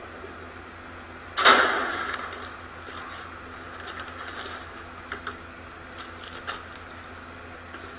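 A sudden loud crash about a second and a half in, dying away over about a second, followed by a few faint clicks and rattles.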